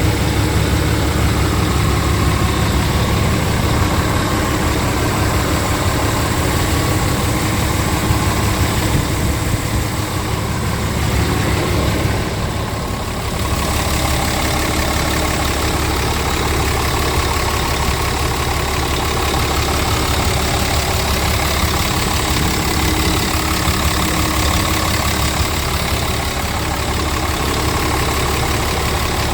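Scania R tractor unit's diesel engine running steadily, dipping briefly in level about twelve seconds in.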